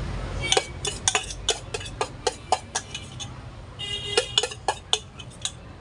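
Metal kitchen utensils tapping and clinking against a pan or tray: a run of sharp knocks, about three a second, with a short pause a little past the middle.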